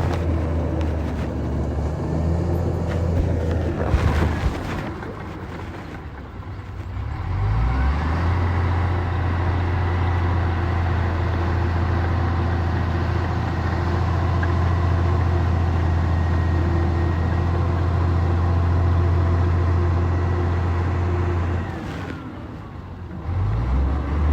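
A heavy construction machine's diesel engine running steadily under load, with a steady high whine over it through the long middle stretch. The engine eases off briefly twice, once a few seconds in and again near the end, then picks back up.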